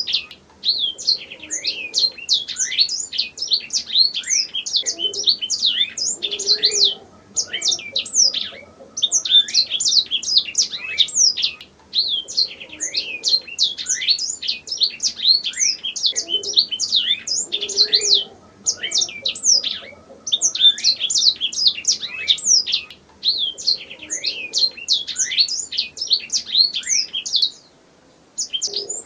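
Domestic canary singing: long, fast phrases of rapid chirps and trills with short pauses between them.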